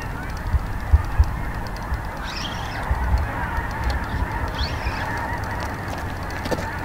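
Birds calling, twice about two seconds apart, over a low rumble of wind on the microphone.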